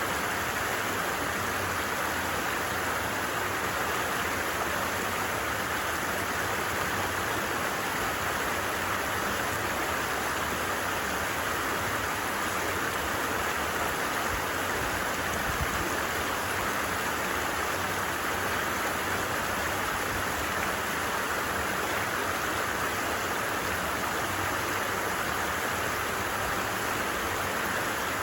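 A stream babbling steadily, an even rush of running water with no breaks.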